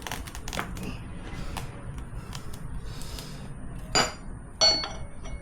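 Metal tire irons clinking against each other and the wheel rim while levering a tire bead on: a few light clicks early, then two loud ringing clinks about four seconds in.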